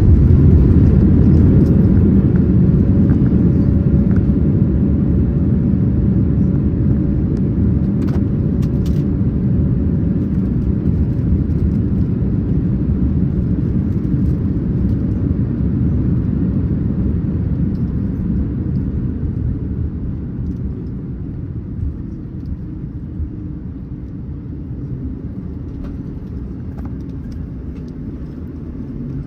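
Low, steady rumble of a Boeing 787-9 airliner heard inside the cabin, fading steadily as the aircraft slows on the runway after landing, with a faint whine that sinks in pitch about two-thirds of the way through.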